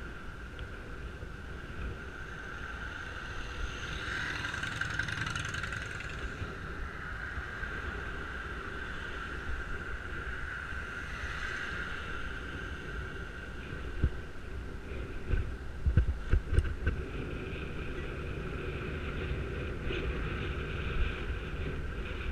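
Wind and road rumble on a helmet-mounted camera during a bicycle ride, with a steady high whine throughout and two swells of passing vehicle noise. A cluster of sharp knocks comes about two-thirds of the way through, from the loose helmet mount jolting over bumps.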